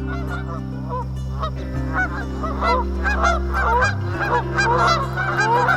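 A flock of birds calling at once: many short, overlapping calls, over background music with steady low tones.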